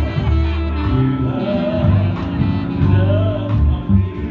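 Gospel music from a church band: bass and drums keeping a steady beat, with a singing voice over it.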